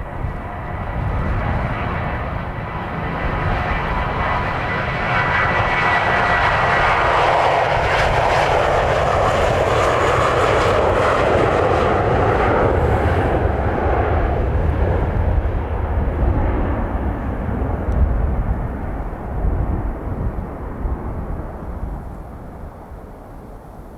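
Airbus A321's jet engines at takeoff power, the roar swelling as the airliner passes and then fading as it climbs away. Gusty wind buffets the microphone underneath.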